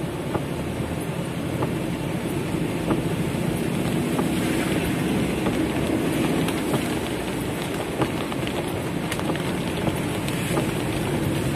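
Heavy rain falling on a car's roof and windows, heard from inside the cabin: a steady dense patter with sharper single drop hits scattered through it.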